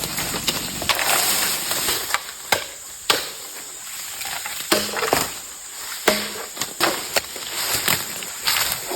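Irregular sharp chopping strikes, a blade hacking at wood or bamboo every second or so, with rustling of leaves and brush between the blows.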